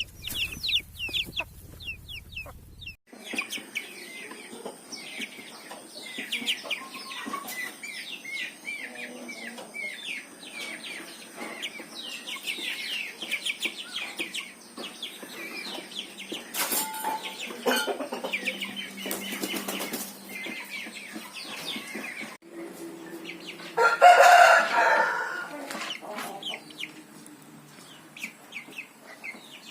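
Aseel chickens clucking and calling, with many short high-pitched calls throughout and one loud, longer call of about a second and a half near the end.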